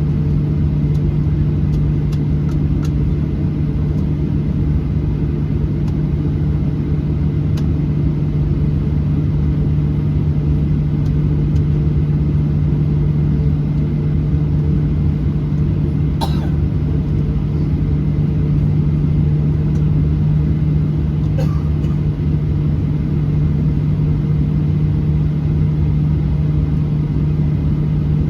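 Steady low drone inside the cabin of a Boeing 737-800 on the ground, with one hum held at a single low pitch over a rumble and no rise in engine power. A couple of faint clicks come about 16 and 21 seconds in.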